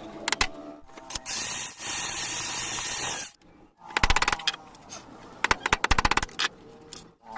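Hand-tool work noises: a couple of sharp clicks, a steady hiss lasting about two seconds, then two quick runs of rapid clicking.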